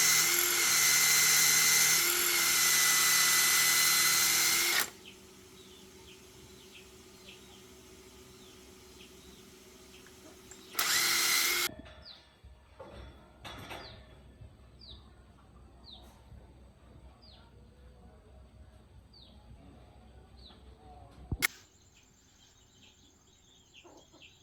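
Handheld electric power tool running steadily at speed with a high whine, stopping about five seconds in, then briefly running again around eleven seconds. After that it is quiet, with a series of faint short falling chirps and one sharp click near the end.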